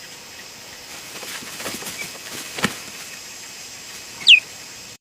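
Steady outdoor background hiss with a few faint clicks, and one short high chirp falling in pitch near the end.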